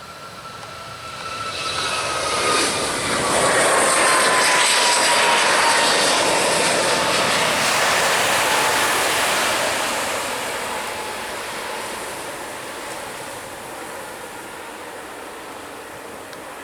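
Jet airliner passing close by. Its engine whine slides down in pitch as the roar builds, then fades slowly.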